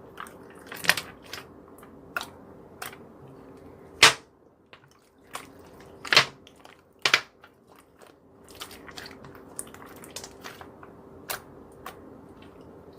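Slime being squeezed and stretched by hand, with sharp clicking pops of trapped air and soft crackling; the loudest pops come about four, six and seven seconds in, over a faint steady hum.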